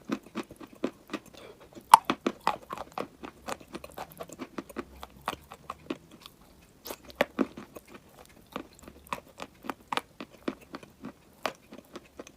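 A person crunching and chewing pieces of dry chalk and clay close to the microphone: irregular sharp crunches, several a second, the loudest one about two seconds in.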